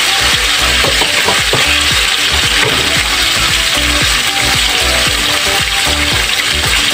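Diced pork sizzling steadily in hot oil in a wok, stirred with a metal spatula that scrapes and clicks against the pan.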